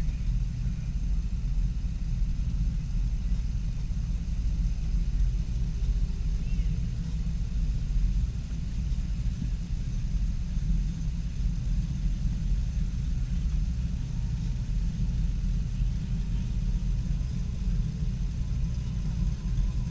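Steady low rumble of a car engine running at an even speed, with no revving.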